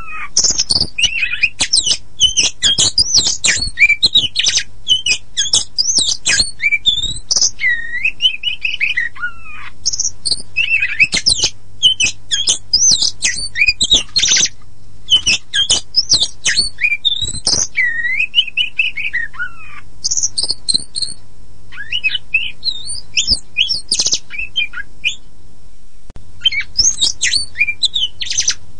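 Oriental magpie-robin, the pied 'kacer poci' form, singing a fast, varied song of whistled notes that rise and fall, trills and sharp chattering calls, with a brief pause near the end. A faint low hum runs underneath.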